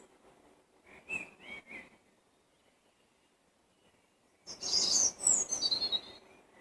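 Songbirds singing: a few short chirps about a second in, then after a quiet pause a loud, quick burst of high song with notes stepping downward.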